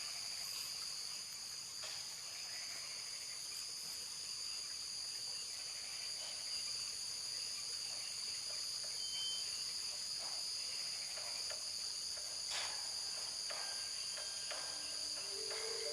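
A steady, high-pitched chorus of crickets. A few faint knocks come through it, and near the end some held musical tones begin.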